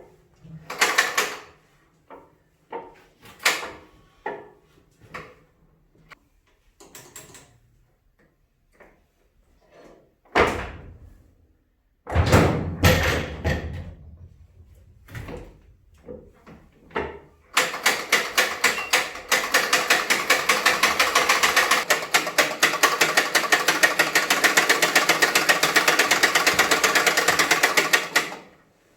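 Metal tools clanking and knocking on a seized Wisconsin TJD engine, then about ten seconds of fast, evenly spaced mechanical clicking that stops suddenly near the end.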